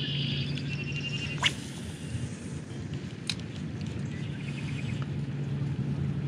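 Small birds trilling in quick chirps, twice, over a steady low hum. About a second and a half in comes a sharp swish, the loudest sound, and a single click follows a couple of seconds later.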